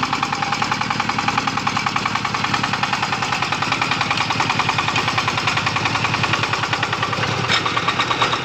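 Single-cylinder diesel engine of a công nông farm truck chugging steadily, about five or six beats a second, with one sharp click about seven and a half seconds in.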